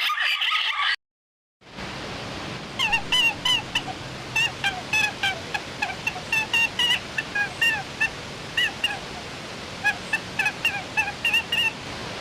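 A bird's short, pitched calls repeated in quick clusters over a steady hiss. They begin after a brief silence about a second and a half in.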